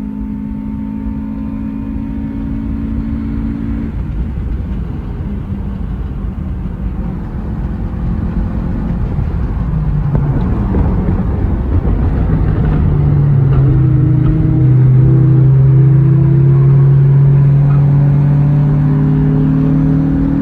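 Car engine under hard driving uphill, its pitch shifting as it revs and comes off throttle, over steady road and tyre noise. It grows louder through the second half of the run.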